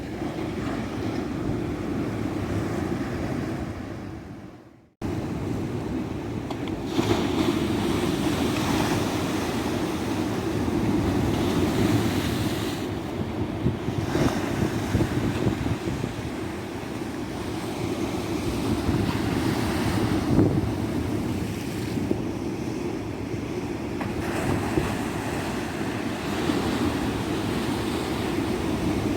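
Ocean surf washing onto a beach, a steady rush that swells and eases every few seconds. About five seconds in the sound fades out and cuts straight back in at full level, an edit splice in the recording.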